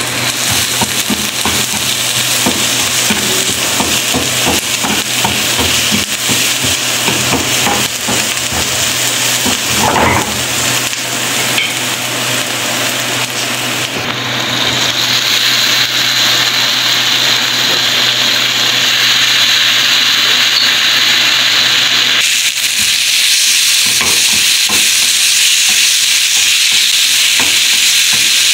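Chopped onions and whole spices sizzling in hot oil in a nonstick frying pan while being stirred, with short scrapes and taps against the pan. Later, with chopped tomatoes in the pan, the sizzle gets louder and brighter.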